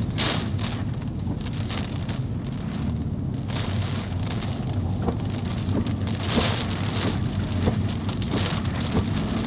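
Torrential cloudburst rain pounding on a car, in irregular louder surges, over a steady low hum from the car.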